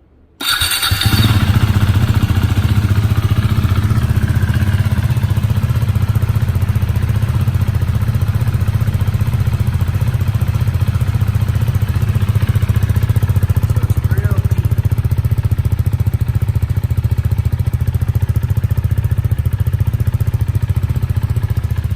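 Husqvarna Vitpilen 401's single-cylinder engine starting through an Akrapovic slip-on exhaust. It catches about half a second in, then idles steadily with a deep exhaust note while warming up from cold.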